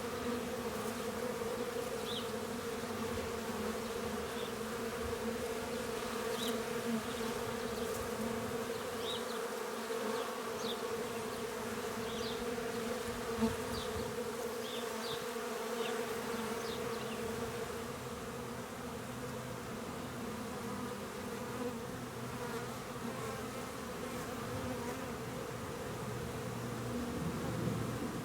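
Honeybees buzzing at the hive entrance: a steady hum of many wings, with bees fanning at the entrance.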